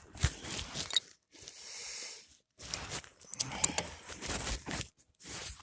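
Irregular crunching and scraping handling noises, with a few sharp clicks.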